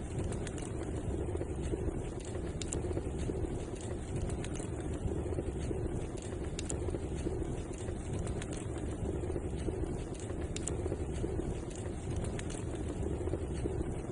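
Wood fire burning in a fireplace: a steady low rumble of flame with scattered sharp crackles and pops every so often.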